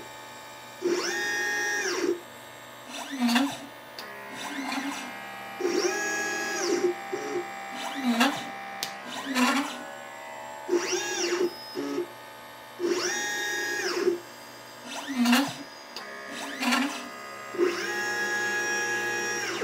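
LitePlacer pick-and-place machine's stepper motors whining as the head moves between parts: each move's pitch rises, holds and falls, with longer travels of one to two seconds alternating with short hops every couple of seconds, and lower short buzzes between them.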